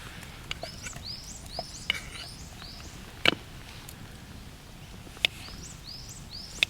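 A small bird calling in two quick runs of short, high, arching notes, one early and one near the end. Several sharp knocks stand out, the loudest about three seconds in.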